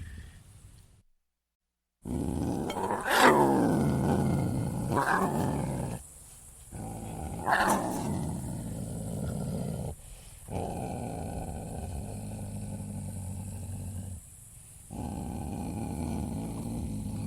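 Leopard growling in long, deep phrases with short pauses between them, with two louder snarls that drop in pitch, about three and about eight seconds in.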